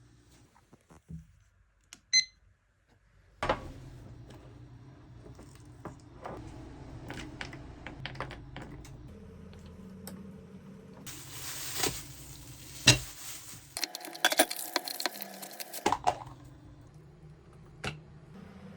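Kitchen sounds: dishes and utensils clinking and knocking, with a short electronic appliance beep about two seconds in and a louder stretch of hissing near the middle.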